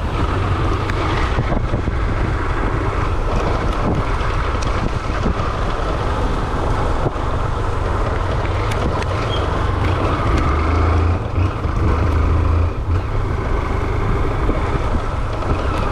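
Motorcycle engine running steadily while riding, its exhaust mixed with heavy wind buffeting on the helmet microphone.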